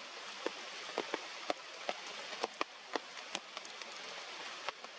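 Heavy rain falling steadily, with many loud individual drops striking close by as sharp, irregular taps.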